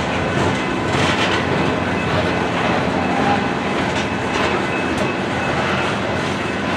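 Coal train's open-top cars rolling steadily past, a continuous rail rumble with the wheels clacking now and then on the track.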